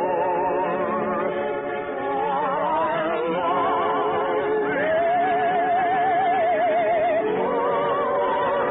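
Operatic singers with orchestra, voices with wide vibrato holding long sustained notes, climbing to a long high note about five seconds in that ends a couple of seconds later. The sound is narrow and dull, as on an old radio transcription.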